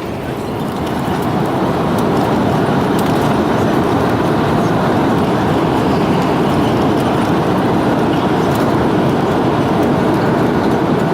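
Airbus A330-300 jet engine and airflow noise heard inside the cabin during landing, swelling over the first couple of seconds into a loud, steady rush.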